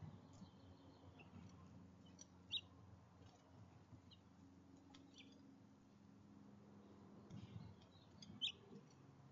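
Two short, high bird chirps about six seconds apart, with fainter chirps between them, over a low steady hum.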